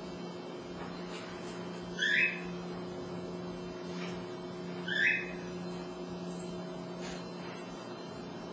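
A short, high, rising call, like a bird's, heard twice about three seconds apart. A steady low hum runs underneath.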